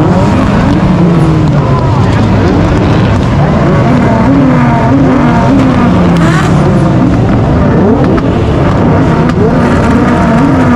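Several tuned car engines revving hard, their pitches rising and falling and overlapping, very loud.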